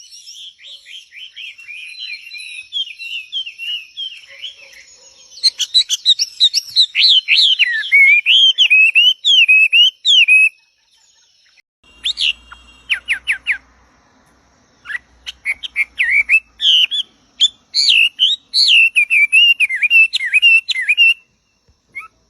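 Songbirds singing: rapid series of short, gliding chirps and whistles, with a thin steady high whine under the song in the first half. The song breaks off briefly about halfway through, then resumes.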